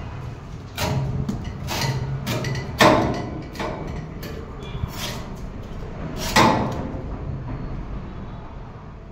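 Small petrol engine of a sugarcane juice machine running steadily, under a series of irregular sharp knocks and thuds, the loudest about three seconds and six and a half seconds in.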